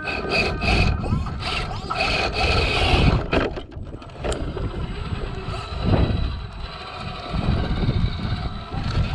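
Traxxas TRX-4 RC crawler's electric motor and gears whining in pulses during the first few seconds, then tyres and chassis scraping and knocking over wet rock with an uneven low rumble.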